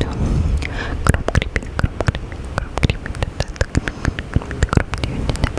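Close-miked ASMR mouth sounds: a quick, irregular run of wet clicks and smacks over a low rumble, with a brief hiss in the first second.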